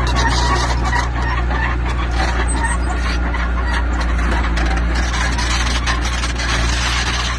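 Diesel engine of heavy earthmoving machinery running steadily, with continual clattering and knocking over it.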